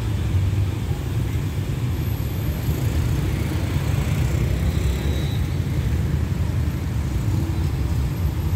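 Steady low rumble of a diesel express train approaching from a distance, with a faint engine hum coming in near the end.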